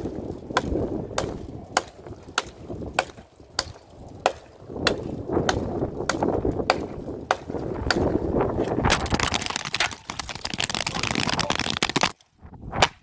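Hand saw cutting through a bush branch: steady back-and-forth rasping strokes with a sharp tick a bit under twice a second. The sawing grows faster and brighter after about nine seconds and stops abruptly near the end.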